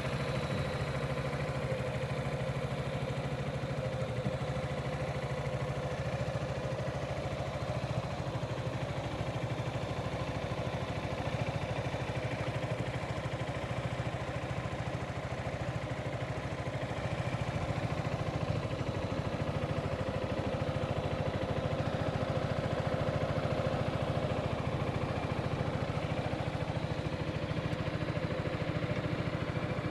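Yamaha XMAX 300 scooter's single-cylinder engine idling steadily, getting slightly louder about halfway through.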